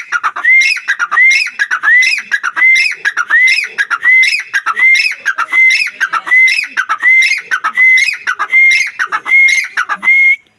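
Teetar (francolin) calling loudly: a fast, unbroken series of rising whistled notes, each followed by sharper falling notes, repeated about one and a half times a second.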